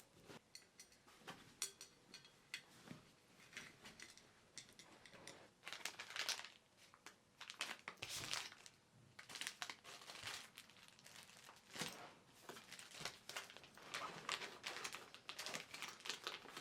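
Crinkling and rustling of plastic or paper being handled, in short irregular bursts.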